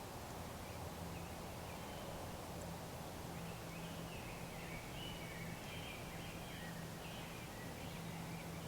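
Faint bird calls: a run of short warbling chirps that starts about three and a half seconds in and keeps going, over a steady low hum.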